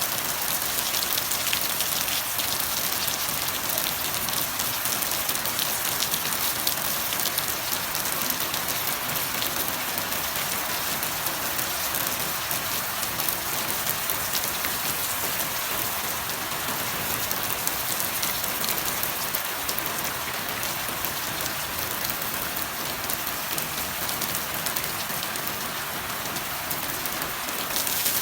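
Steady heavy rain falling on surfaces, a dense even hiss with many small drop patters.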